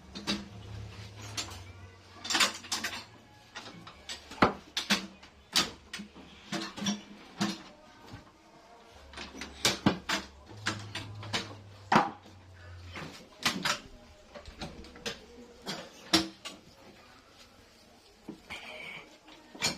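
Irregular sharp knocks and clatter, a few each second, with a low hum that comes and goes.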